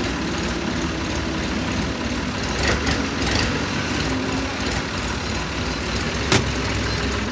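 An engine running steadily, with a few sharp knocks over it, the loudest about six seconds in.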